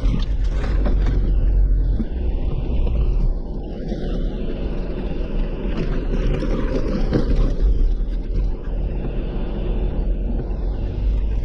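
A Jeep driving along, with a steady low engine and road rumble heard from inside the cab and a few light knocks and rattles.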